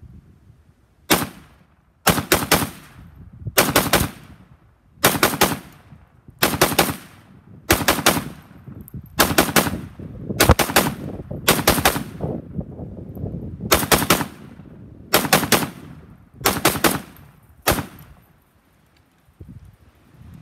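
A rifle fed from a 75-round drum magazine firing about a dozen short strings of rapid shots, roughly a second and a half apart. Wind rumbles on the microphone between the strings, and the shooting stops a couple of seconds before the end.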